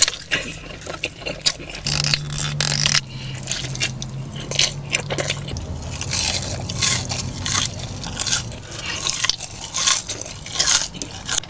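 Close-miked biting and chewing of a burger: irregular wet mouth clicks and smacks.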